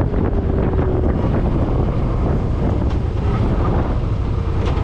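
Wind rushing over the microphone on a moving Suzuki Boulevard M50 motorcycle, with the bike's V-twin engine running steadily underneath.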